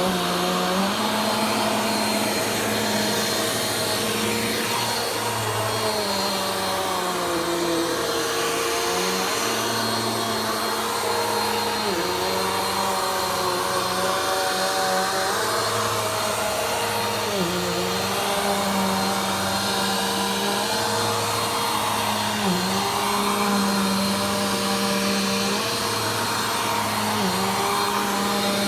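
Vacuum cleaner running steadily, its motor pitch dipping briefly about every five seconds.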